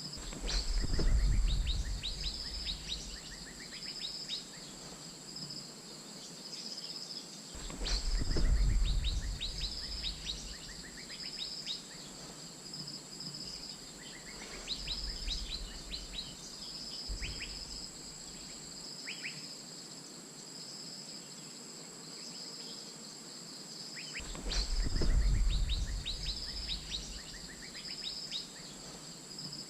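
Asian fairy-bluebirds calling over and over in short, sharp, quickly sweeping notes, against a steady high drone of insects. Three loud low rumbles of wind on the microphone come about a second in, around eight seconds in and near the end.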